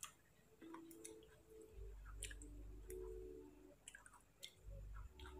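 Faint mouth clicks and soft chewing as small, soft Jamaica cherries (mansanitas) are eaten off a plastic spoon: a handful of short, separate clicks spread over a very quiet background.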